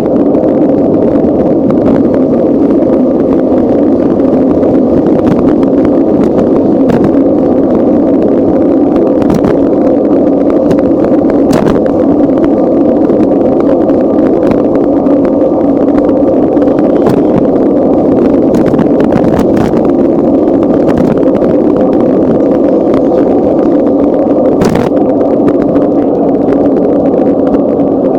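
Steady, loud noise from riding a bicycle, with scattered short clicks and knocks throughout.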